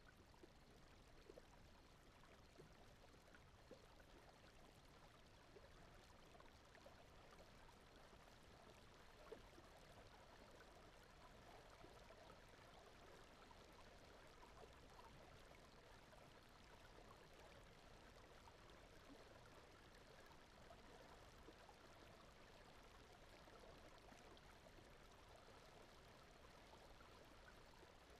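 Faint, steady running-water ambience like a gently flowing stream.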